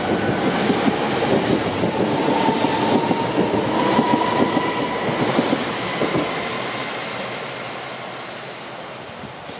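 A train passing on the tracks: a rumbling clatter of wheels with a thin, steady high squeal over it. It is loudest in the first half and fades away over the last few seconds.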